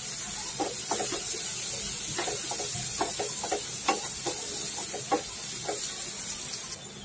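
Chopped onions, garlic and green chillies sizzling in butter in a nonstick frying pan, with a wooden spatula stirring and scraping against the pan in irregular strokes.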